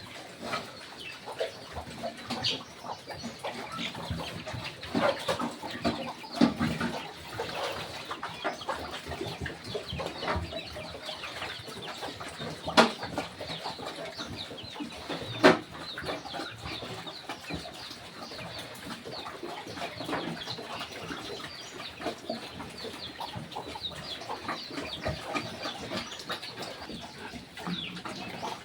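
Backyard farm sounds: chickens clucking among many small clicks and knocks from the animals around them, with two sharp knocks standing out near the middle.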